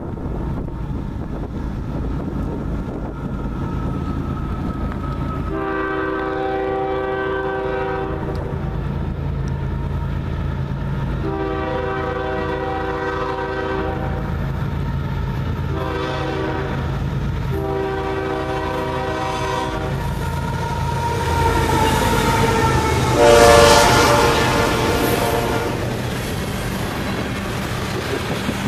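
Canadian Pacific GE ES44AC diesel locomotive sounding its horn in the grade-crossing pattern, long, long, short, long, as it approaches. The locomotive's engine then swells to its loudest as it passes, about 23 seconds in, and the tank cars of the crude oil train rumble by on the rails.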